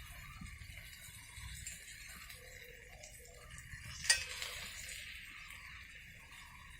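Cooking utensils being handled and stirred against cookware, with one sharp metallic clink about four seconds in, over a faint steady hiss.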